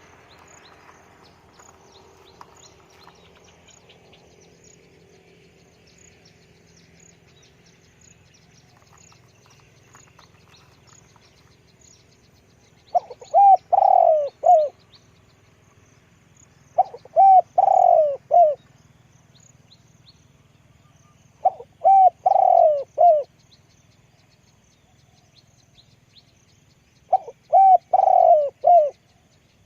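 Spotted dove cooing. It gives four phrases of several coos each, a few seconds apart, beginning about halfway through. Faint high chirping runs throughout.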